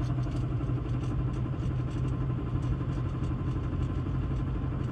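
2016 Chevy Silverado 1500 running at a steady speed off the throttle: a steady road and drivetrain hum with a rapid knocking, which the owner places in the front right suspension and not in the engine. The knock goes away as soon as the accelerator is touched.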